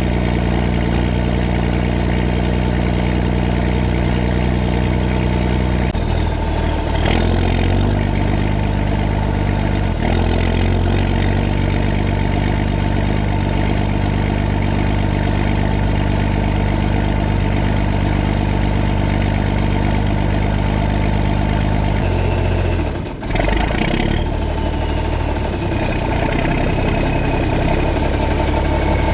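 Straight-piped John Deere 4630 six-cylinder diesel running steadily, its engine speed shifting up and down several times, with a short drop in level about 23 seconds in. A faint high whistle slowly falls in pitch over the engine sound, once in the first half and again near the end.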